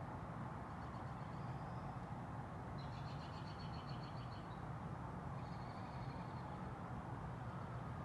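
Small birds chirping outside, with a rapid high trill about three seconds in and shorter high calls a couple of seconds before and after it, over a steady low background rumble.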